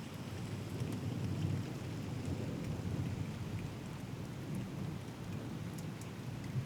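Steady rain falling, with scattered ticks of single drops, over a low rumble of thunder that rolls on throughout.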